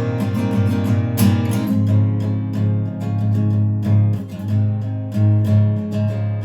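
Music: a strummed acoustic guitar playing a steady rhythm of chords.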